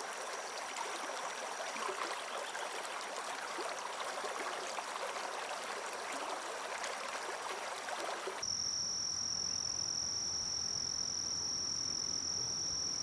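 A small stream running and trickling, with a faint high insect note under it; about eight seconds in it cuts to a steady, high-pitched insect trill, like crickets, over a quieter background.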